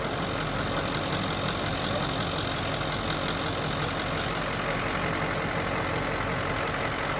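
The engine of a Ford ambulance-conversion camper truck running steadily, with its road and cab noise, at an even level without changes.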